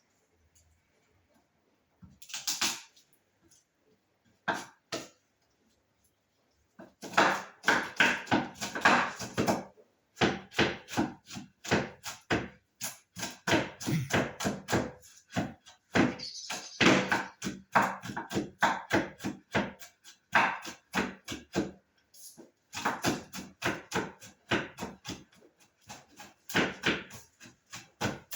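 Knife chopping on a cutting board in quick runs of strokes, several a second, with short pauses between runs. A couple of single knocks come first, and the steady chopping starts about seven seconds in.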